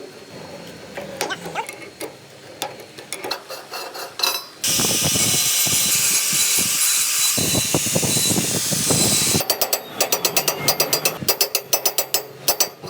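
Workshop tool noise. There are scattered metal clicks and knocks, then a loud steady hissing run of about five seconds that cuts off suddenly, then a quick series of sharp clicks and taps.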